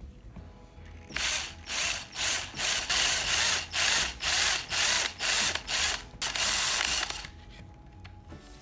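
Rhythmic rasping strokes, about two a second, ending in one longer stroke: something abrasive rubbed back and forth by hand on a small part.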